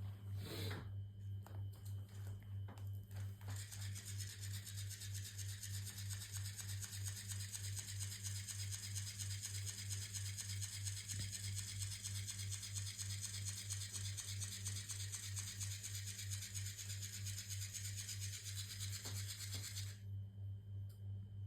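Cat playing with a fish toy: a steady low hum pulsing rapidly and evenly, with a rubbing, rasping noise over it from a few seconds in until near the end.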